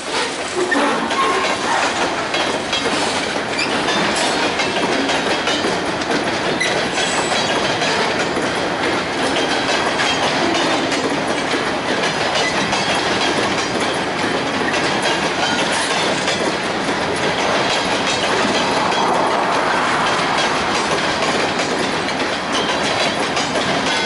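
Covered hopper cars of a freight train rolling past at close range: a steady, continuous noise of steel wheels running on the rails.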